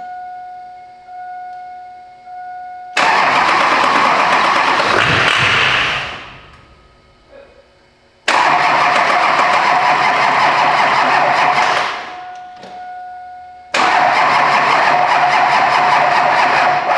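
6.6-litre LB7 Duramax V8 turbodiesel being cranked by its starter in three loud attempts of about three to four seconds each, the first start after fuel-system work and a tightened injector high-pressure line. A repeating beep sounds in the gaps between attempts.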